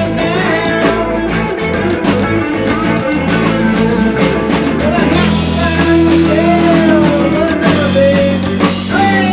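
Live rock band playing a blues-rock song: electric guitar, bass and drums keeping a steady beat, with a lead line bending up and down in pitch about halfway through.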